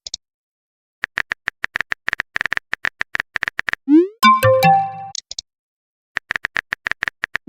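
Phone-keyboard typing sound effect: a run of quick, even taps, then a short rising swoop and a chime as a chat message is sent or arrives. After a pause comes another short burst of taps, then another swoop.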